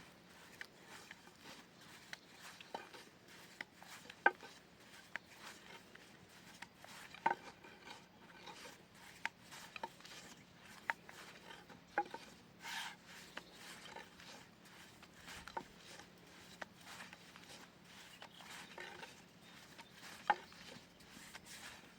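Irregular light knocks, taps and rubbing from objects being handled, a few louder clicks standing out, over a faint steady hum.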